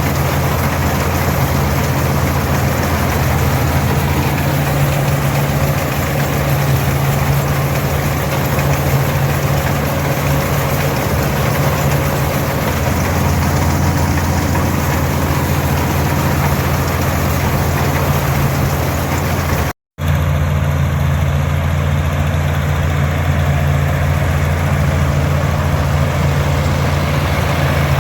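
A Farmall 460 tractor's 282 diesel engine running steadily under load together with an International 82 pull-type combine threshing oats, a constant drone with machinery clatter above it. The sound cuts out for an instant about twenty seconds in.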